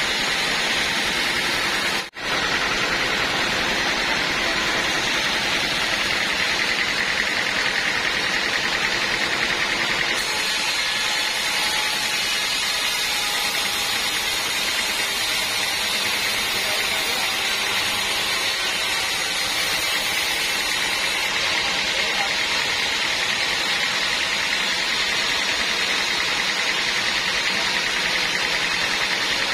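Band sawmill running, a steady loud machine noise with a held high-pitched tone throughout. It drops out abruptly for a moment about two seconds in.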